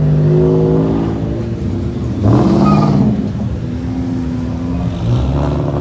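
Kia car's engine revving loudly through its exhaust: a steady drone, then a sharp rise in pitch about two seconds in and another rev near the end.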